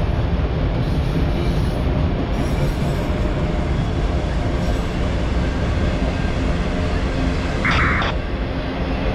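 Norfolk Southern autorack freight train rolling past: a steady rumble of wheels on rail, with a brief high squeal near the end.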